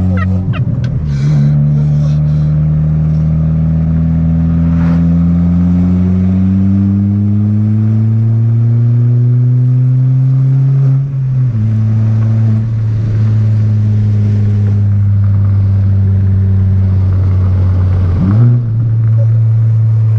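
2020 Kia Forte GT's 1.6-litre turbocharged four-cylinder running loud with no muffler or resonator behind the catalytic converter while the car is driven. Its note climbs slowly for about ten seconds, drops at a gear change, then holds fairly steady, with a brief dip and pick-up near the end.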